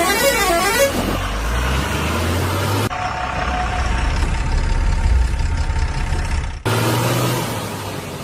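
Vehicle engine running with a steady low rumble, with a warbling, up-and-down horn in the first second. The sound changes abruptly twice, at about three seconds and again near the end.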